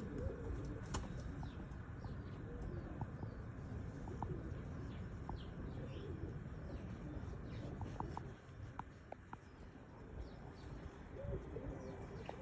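Tippler pigeons cooing, low wavering coos repeated throughout, with faint short high chirps and clicks over a low background rumble.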